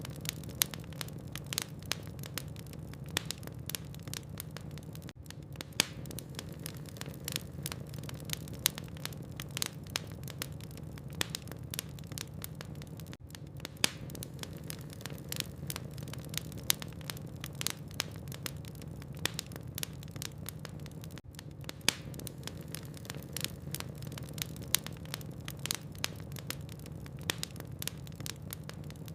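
Wood logs burning in a fireplace, crackling with frequent sharp pops and snaps over a steady low rumble of the flames. The sound drops out briefly about every eight seconds.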